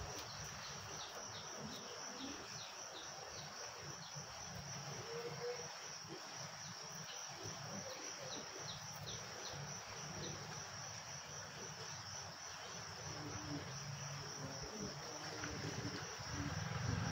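Steady, high-pitched drone of insects, slightly pulsing, with two runs of short, quick high chirps from small birds over it.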